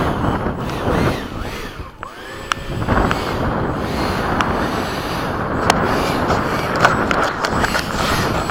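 Strong wind buffeting the microphone, with a few sharp clicks.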